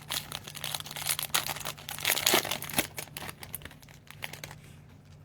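Foil wrapper of a Topps Chrome trading-card pack being torn open and crinkled: a dense crackling that dies away about four and a half seconds in.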